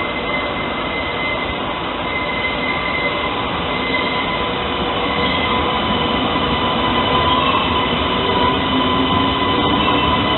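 Train running on the rails, with steady high squealing tones over the rolling noise, growing slowly louder.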